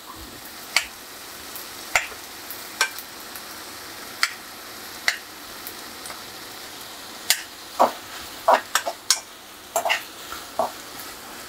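Sliced onions and tomatoes sizzling steadily in a metal kadai while a metal spoon stirs them, clinking and scraping against the pan at irregular moments.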